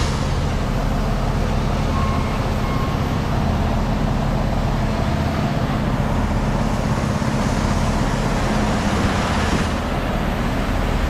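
Semi truck's diesel engine running steadily under load with road and tyre noise, heard from inside the cab.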